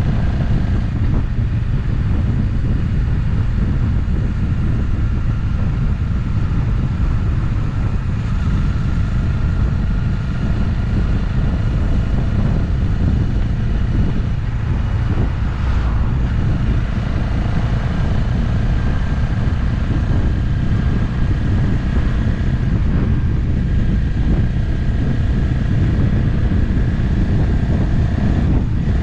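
Motorcycle riding at a steady cruise, the engine note drifting gently up and down under a constant rush of wind on the camera microphone.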